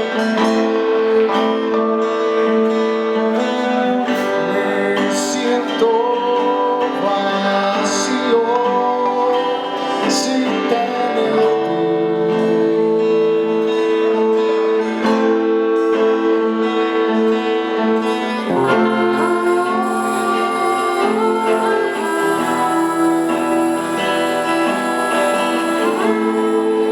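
A small band playing live: guitars and bass holding chords, with a gliding melody line over them and a few cymbal strokes early on.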